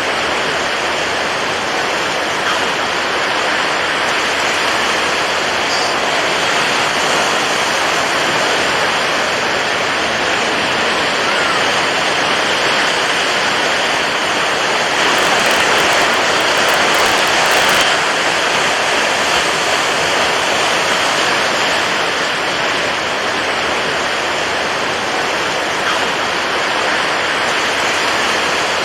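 Continuous rushing water, an even wash of noise that swells a little about halfway through.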